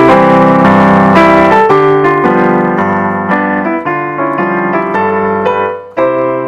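Piano or electric keyboard music playing a melody over chords, a new note every quarter to half second.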